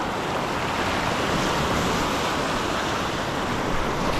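Steady wash of surf, with wind buffeting the microphone.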